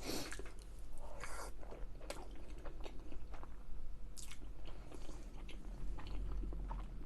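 A person biting and chewing food close to the microphone, with irregular short bursts of mouth noise.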